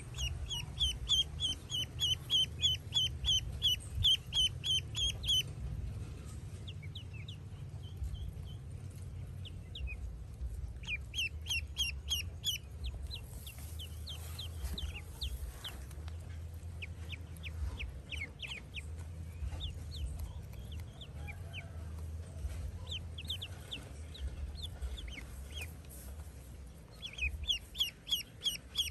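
Ducklings peeping: runs of quick, high, downward-sliding peeps, about four a second, in the first five seconds and again near the end, with scattered peeps between. A low steady rumble runs underneath.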